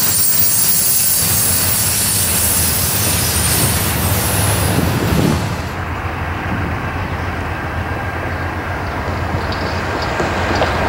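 Freight train rolling past, steel wheels on the rails giving a loud hiss with squeal. The high-pitched rail noise falls away about five and a half seconds in, leaving a low steady rumble.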